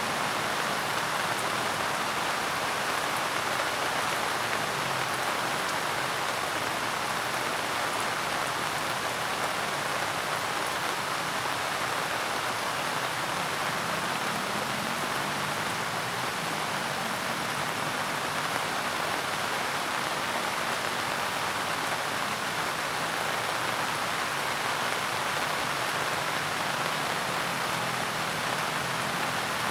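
Steady rain falling and pattering on a surface, an even hiss with no pauses or thunder.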